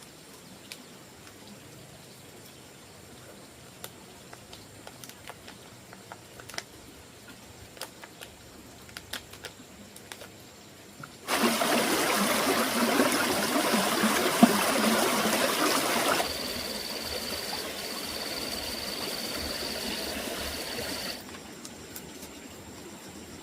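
Small scattered clicks and knocks of handling, then running water that starts suddenly about eleven seconds in, loud for a few seconds, then quieter with a faint steady high tone, and stops abruptly a few seconds before the end.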